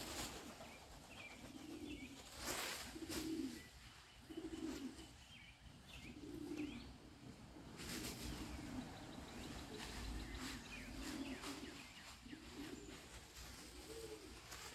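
Domestic homing pigeons cooing, one low coo after another with faint higher chirps of other birds, and a few brief rustling surges.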